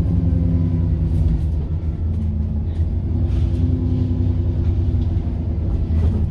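Diesel engine of a First South Yorkshire bus running under way, heard from inside: a steady low drone with engine tones that shift slightly in pitch and a faint higher whine at the start.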